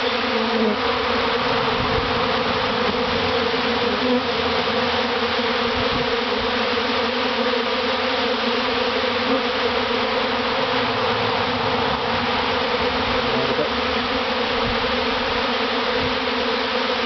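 A large honey bee swarm flying in close around the microphone: a dense, steady buzzing hum of thousands of wingbeats, the swarm settling into a new hive.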